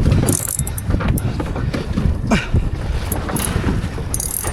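Wind buffeting the microphone: a steady, uneven low rumble, with a few faint clicks over it.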